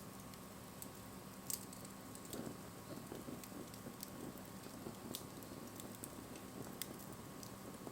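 Wood bonfire crackling, with sharp pops scattered through it, the strongest about a second and a half in. From about two and a half seconds in, a soft, low, irregular flutter of burning wood joins.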